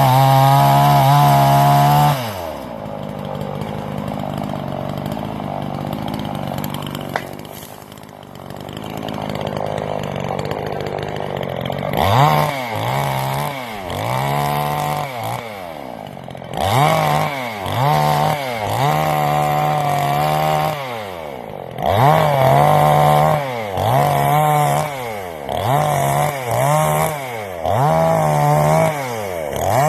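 Generic 45cc two-stroke Chinese chainsaw held at high revs, then dropping suddenly to idle about two seconds in. From about twelve seconds in the throttle is blipped over and over, the revs rising and falling roughly once a second.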